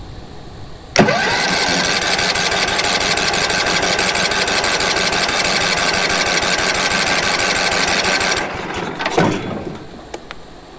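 Wood-Mizer LT15 sawmill's gas engine being cranked by its electric starter with the choke on for about seven seconds, cutting in suddenly and stopping without the engine catching. It turns over but won't fire, which the owner puts down to fuel not yet reaching the engine after years of sitting.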